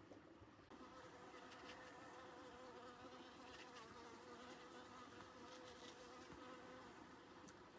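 Faint insect buzzing, a steady, slightly wavering hum that starts under a second in.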